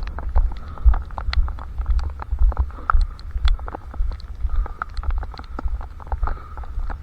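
Running on a head-mounted camera: irregular low thumps from the stride and the strap jostling the microphone, with many scattered sharp ticks over them.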